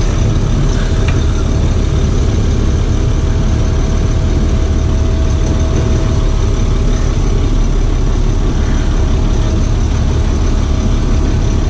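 Box truck chassis engine running steadily at low revs, with a faint steady whine for most of the time.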